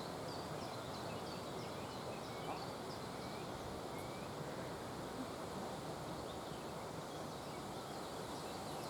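Small songbirds chirping: a quick run of short, high notes, two or three a second, with a few lower down-slurred notes, thinning out after the first few seconds, over a steady rushing outdoor background noise.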